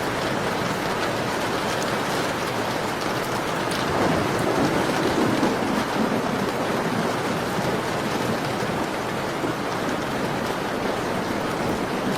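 Steady rain falling on a window pane, an even hiss of drops, with a brief swell in the lower part of the sound about four seconds in.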